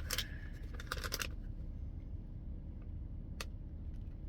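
Plastic snack bag of dried cod bites crinkling and rustling as it is opened and handled for about the first second, then a single click a few seconds in.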